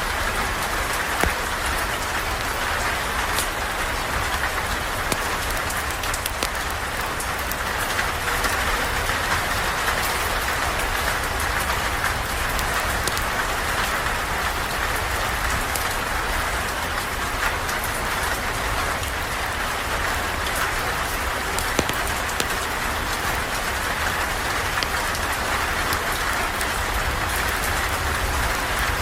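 Steady rain falling on a surface, an even hiss dotted throughout with sharp ticks of individual drops.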